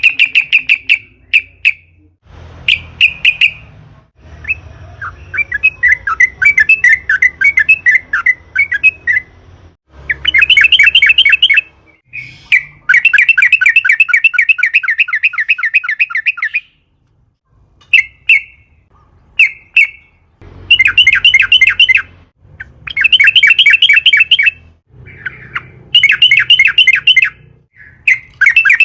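Yellow-vented bulbul (trucukan) singing long, rapid chattering rolls: runs of fast repeated notes in phrases of one to four seconds, broken by short pauses.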